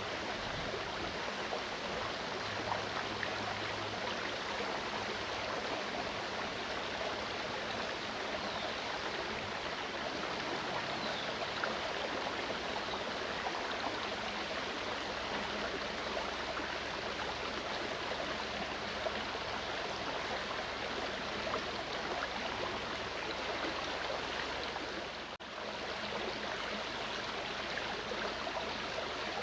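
Clear mountain creek rushing and babbling over stones, a steady water sound with a brief dip in level near the end.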